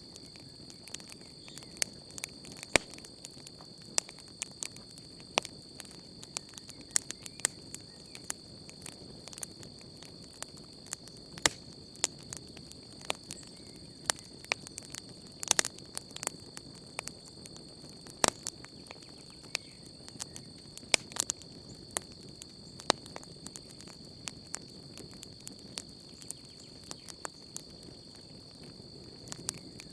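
Wood campfire crackling, with irregular sharp pops and snaps scattered through. Underneath runs a steady, high-pitched chirring of crickets.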